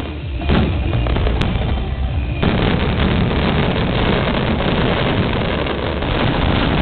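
Fireworks finale barrage: rapid overlapping bangs and crackling, thickening into a dense continuous volley about two and a half seconds in.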